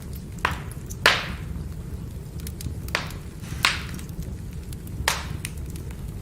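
Wood fire burning, a steady low rumble of flame with half a dozen sharp cracks and pops of the firewood, the loudest about a second in.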